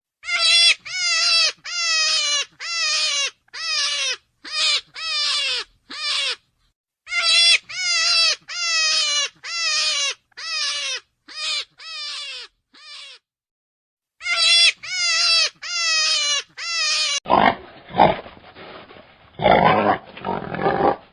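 Farm animal calling over and over, about two short cries a second, each cry falling in pitch at its end, with two brief pauses. About seventeen seconds in, a rougher, noisier animal sound from another recording takes over.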